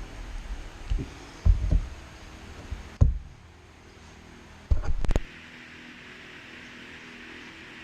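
Several dull, low knocks and bumps from handling, the last and longest a cluster about five seconds in, then a steady hum.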